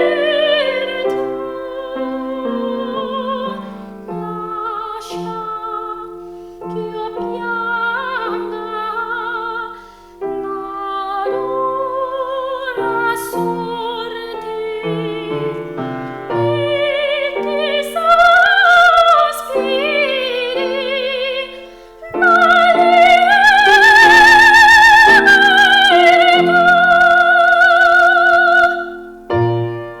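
A voice singing in a classical, operatic style with wide vibrato, accompanied by piano. Near the end it holds one long, loud note.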